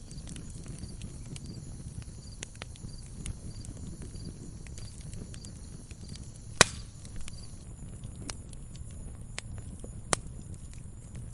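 Logs burning in a fireplace: a steady low rumble of flame with scattered crackles. One sharp, loud pop comes a little past halfway, and a smaller one near the end.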